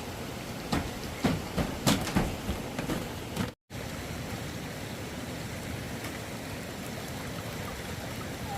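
Steady noise of water, with a run of sharp knocks and thuds in the first three and a half seconds. The sound cuts out for a moment just after the knocks, then the steady water noise carries on.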